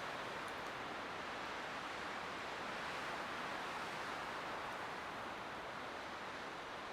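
Light wind blowing steadily through pine trees, a soft even rush that swells slightly and eases off toward the end.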